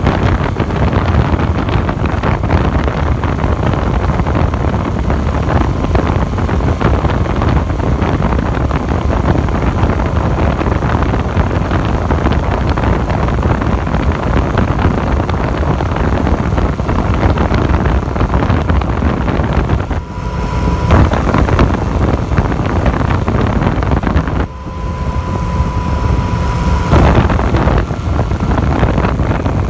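Heavy wind rush on the microphone from a Yamaha FZ-09 motorcycle cruising at a steady speed, with its three-cylinder engine running underneath. The wind noise drops suddenly twice, about twenty and twenty-four seconds in, and during the second lull a steady whine stands out for a couple of seconds.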